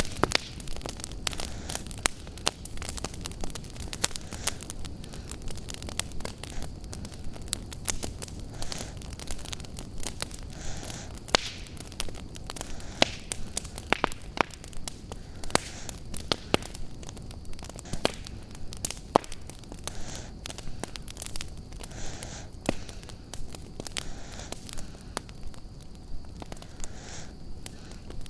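Wood fire crackling in a fireplace: irregular sharp pops and snaps over a low steady rumble. Under it, the slow, soft breathing of a sleeping dog comes every few seconds.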